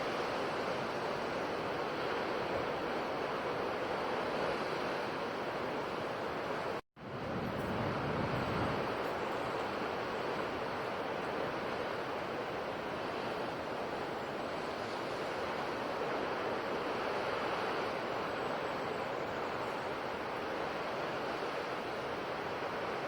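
Ocean surf washing steadily onto a shore. The sound breaks off for an instant about seven seconds in, then comes back with a deeper surge.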